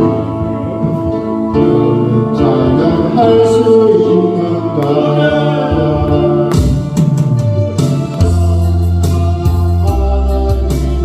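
A gospel song sung solo over electronic organ accompaniment, sustained notes and chord changes, with vibrato on a held note about five seconds in.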